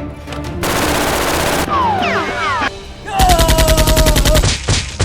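Dubbed automatic-gunfire sound effect: rapid bursts of about ten shots a second starting about three seconds in, stopping briefly and starting again near the end, after a short hissing burst and falling whistle-like tones. Music plays underneath.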